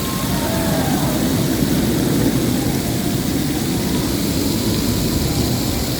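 Steady low rumbling noise, with a few faint short pitch glides in the first second.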